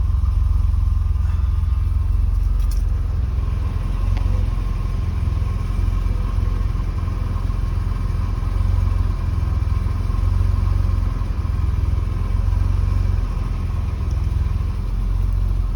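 1985 BMW 535i's 3.4-litre straight-six engine running steadily a minute after a cold start.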